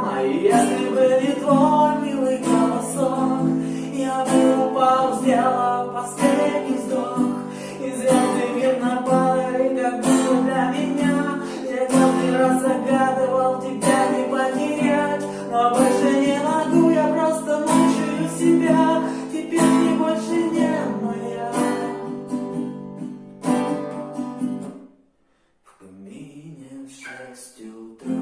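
Acoustic guitar strummed in chords under a singing voice, a cover of a pop song. Near the end the music drops out for a moment, then quieter guitar picks up again.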